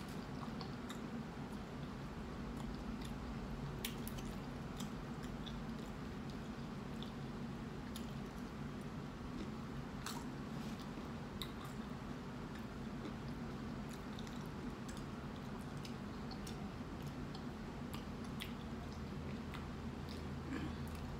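Close-up chewing of a mouthful of burrito, with many short wet mouth clicks scattered through. A steady low hum from a fan runs underneath.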